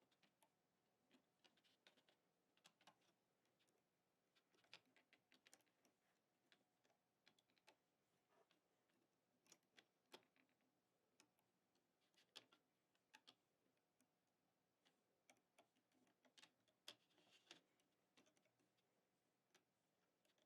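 Near silence with faint, irregular small clicks and ticks: a hook and rubber bands being worked over the pegs of a plastic Fun Loom.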